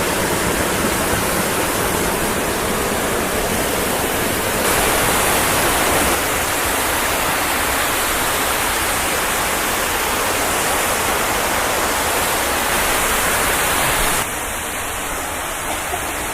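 Waterfall close by: a loud, steady rush of falling water, dropping a little in level near the end.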